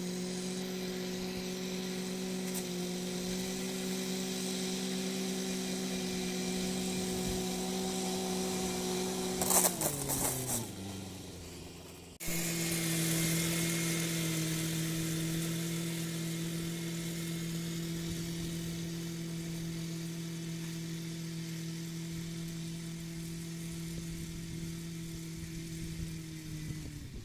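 Tractor with a rotary mower running, a steady droning hum. About ten seconds in there are a few clatters and the hum sinks in pitch. After a sudden break it drones steadily again, and near the end it sinks in pitch once more.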